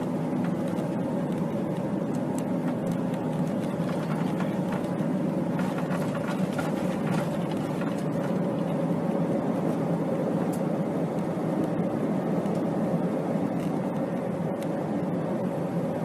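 Aircraft engine running steadily: an even rushing drone with a constant mid-pitched hum, cutting off abruptly at the end.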